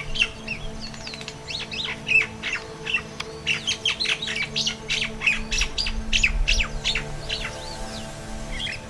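A flock of common mynas chattering: many short squawks, whistles and chirps overlapping without a break, over a faint steady hum.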